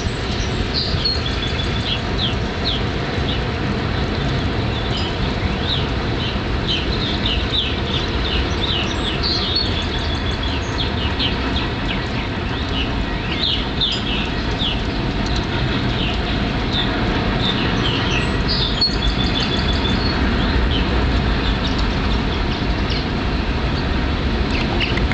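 Many short, high bird chirps scattered throughout, over a steady low rumble.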